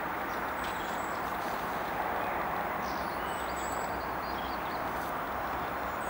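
Steady rushing background noise, with a few faint, high, thin chirps from small garden birds about a second in, around three and a half seconds in, and at the end.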